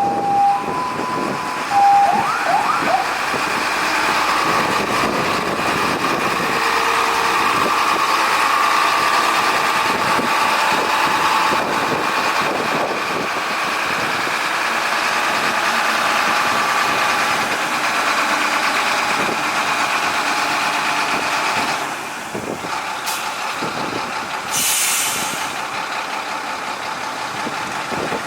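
A fire truck's two-tone siren alternates for about two seconds and cuts off. The truck's engine then runs steadily, with a short hiss near the end.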